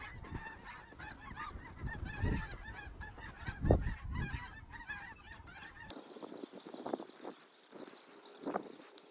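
Many snow geese calling at once, a dense chorus of overlapping yelps from a large flock, over low wind rumble with one thump a little under four seconds in. About six seconds in the sound changes abruptly: the rumble drops out and the calling turns thinner and higher.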